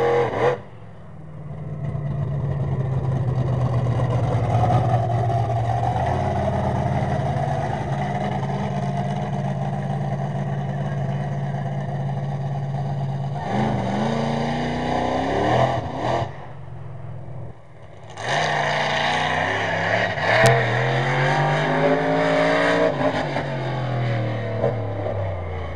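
Bigfoot monster truck's engine running hard under throttle, the revs holding high, then rising and falling twice with a short drop in between.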